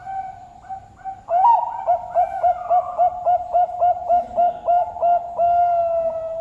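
Zebra dove (perkutut) cooing: a short opening note, a loud call about a second in, then a quick run of clipped coos at about four a second, ending in a long held note.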